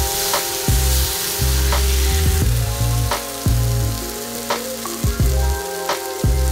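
Diced apples sizzling in a cast-iron skillet while a spatula stirs and scoops them, with a steady hiss of frying. Background music with bass notes plays underneath.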